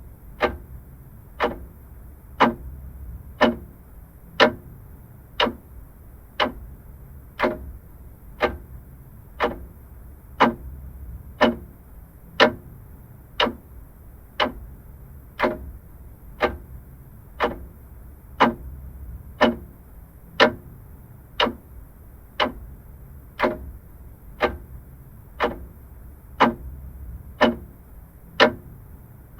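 Vintage clock ticking steadily, about one crisp tick a second.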